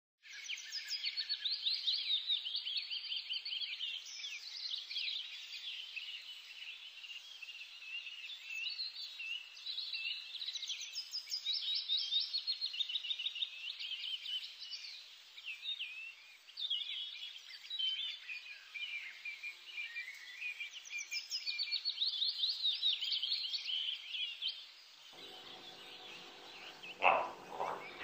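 Small bird singing: fast chirps and trills, in phrases with short breaks. It stops near the end, giving way to room noise and a brief sound.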